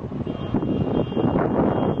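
Steady vehicle and road noise, a continuous rough rushing sound.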